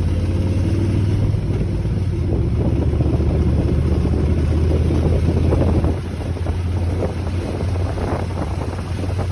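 Motorcycle engine running while riding, with wind buffeting the microphone; the engine note drops off about six seconds in as the throttle eases.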